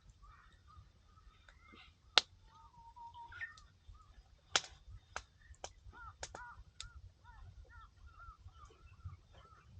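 Wood fire crackling with a few sharp, separate pops, the loudest about two seconds in and a cluster between four and a half and seven seconds. Birds call faintly throughout.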